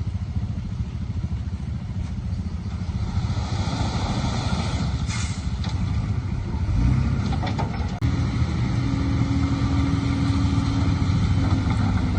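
Heavy diesel earthmoving engine running under load, a steady low rumble with some metallic clatter. The sound drops out briefly about two-thirds of the way through, then the engine carries on.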